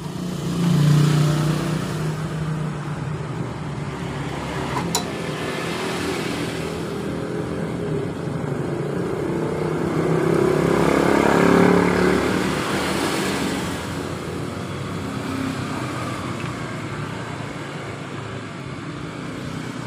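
Road traffic passing, swelling about a second in and again more slowly around ten to twelve seconds before fading, with a single sharp click about five seconds in.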